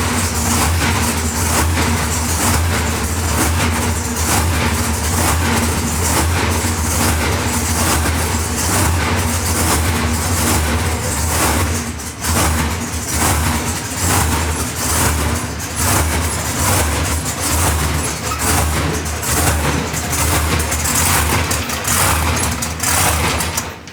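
A heavy engine running loudly and steadily with a deep low rumble, cutting off suddenly near the end.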